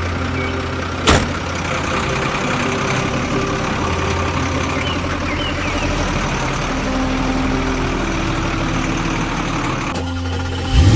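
A truck engine idling steadily, with a sharp click about a second in and a sudden louder sound right at the end.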